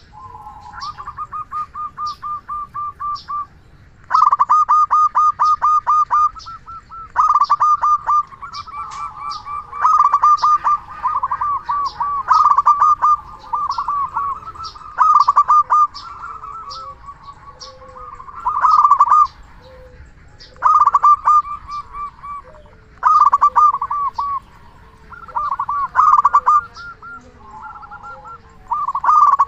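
Zebra dove (perkutut) calling, a bird in full song: phrases of rapid, stuttering coos, with louder bursts about every two to three seconds and softer calling in between.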